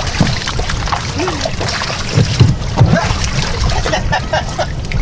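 Wind rumbling on the microphone and water sloshing and splashing around a boat's hull, with a few dull knocks about two to three seconds in and brief murmured voices.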